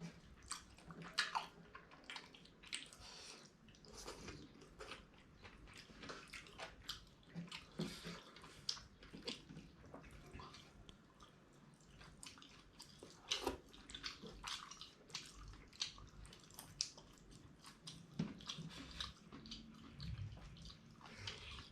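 Close-miked chewing and wet mouth sounds of people eating dhido with fish gravy: many short, irregular clicks and squishes at a faint level.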